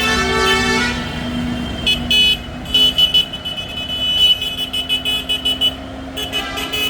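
Vehicle horns beeping in a rapid run of short, high toots over a steady engine hum, as a line of tractors passes.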